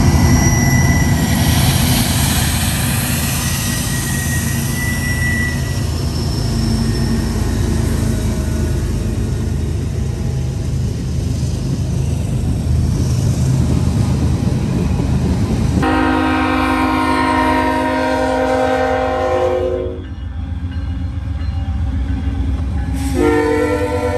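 GE diesel freight locomotives passing close by with a steady deep rumble of engines and rolling wheels. About two-thirds of the way through, a chord air horn sounds for about four seconds, and near the end a second horn with a different chord starts.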